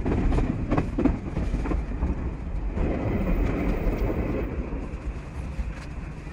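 Odakyu 5000 series electric train heard from the driver's cab as it rolls into a terminal platform: a low running rumble of the wheels with a few sharp clicks over the points early on, growing gradually quieter as the train slows.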